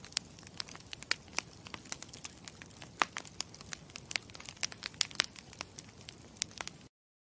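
Campfire crackling: a steady low rumble with frequent sharp, irregular pops and snaps of burning wood. It cuts off abruptly near the end.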